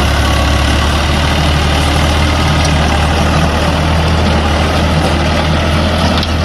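A heavy engine running steadily at an even speed, with a strong low hum.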